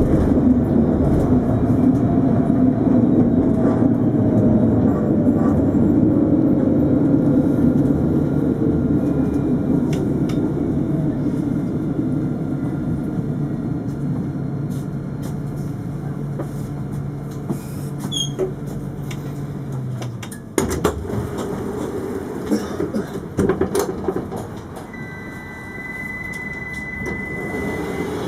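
Alstom Citadis 402 tram slowing down: running noise and motor tones fade and fall in pitch over about twenty seconds, then drop away suddenly, followed by a few clicks and a steady high beep near the end.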